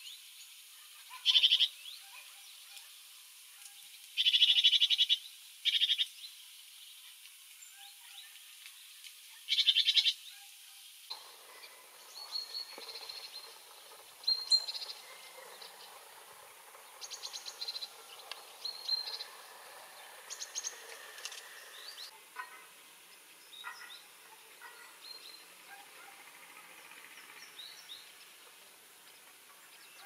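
Small songbirds calling: a few loud, rapid trills in the first ten seconds, then fainter scattered chirps and short trills over a steady soft hiss.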